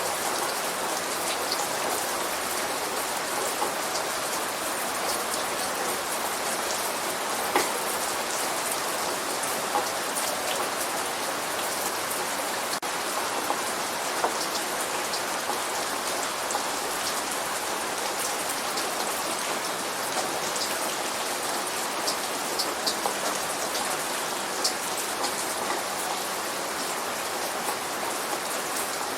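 Steady light rain: an even hiss of rainfall with individual drops heard as scattered sharp ticks on a hard surface.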